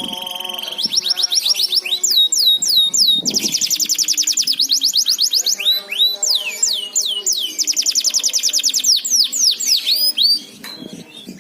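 Canary singing: fast rolling trills of rapidly repeated notes alternating with series of downward-sweeping whistles, opening with a held steady whistle. The song drops away about ten seconds in.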